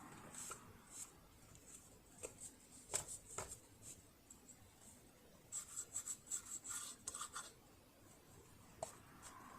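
Faint handling sounds of hands and tools working on a sewing machine's mechanism: a few light clicks around two to three seconds in, then a run of quick scratching ticks for about two seconds past the middle, and one more click near the end.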